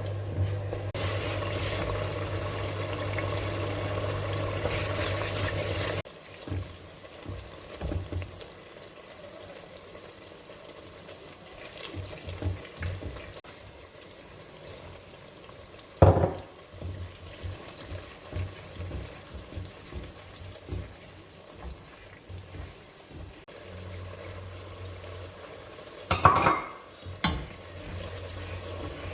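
Kitchen cooking sounds: stirring in a pan with some sizzling, over a low steady hum that stops after about six seconds and returns near the end. Sharp knocks of a utensil stand out about halfway through and again near the end.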